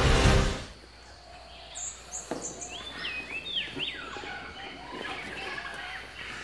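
Background music cuts off within the first second. Then birds chirp a few short calls, with faint rustles and knocks.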